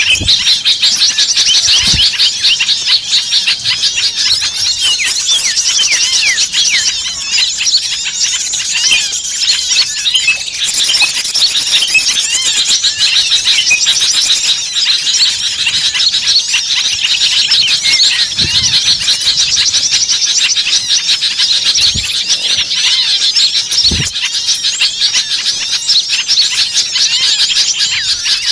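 Bird-lure recording: a dense, continuous chorus of many small songbirds chirping and twittering at once, rapid overlapping high calls from several birds.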